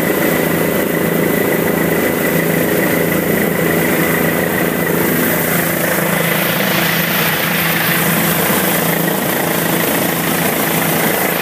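Helicopter engine and rotor running steadily and loudly, a constant mechanical drone with a steady higher whine; from about halfway through, a rushing hiss grows stronger over it.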